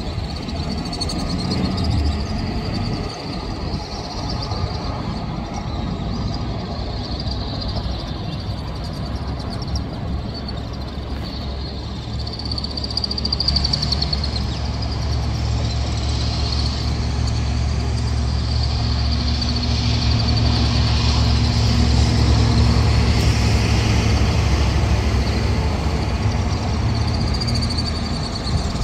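Distant rumble of an EP1M electric locomotive hauling a passenger train, growing into a steady low drone about halfway through. A high wavering chirr runs in the background.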